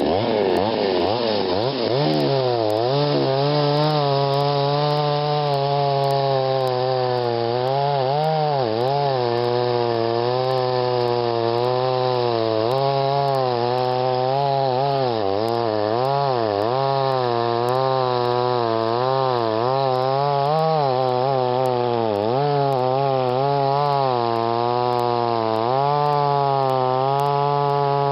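Chainsaw running hard and cutting wood for the whole stretch, its engine note dipping under load and picking back up again and again as the chain bites and clears.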